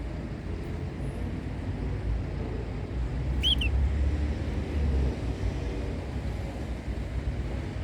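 A steady low rumble, strongest in the middle, with one short canary chirp about three and a half seconds in.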